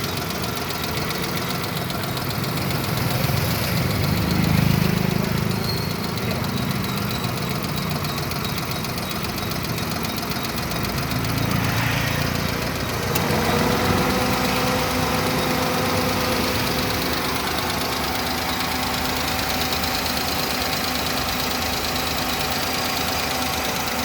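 Suzuki Alto car engine running, swelling in loudness about four seconds in and again around twelve seconds, then settling into a steady hum.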